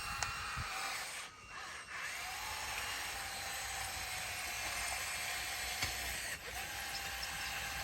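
Bulldozer running, a steady mechanical noise with faint high whining tones through it, broken by two short drops in level.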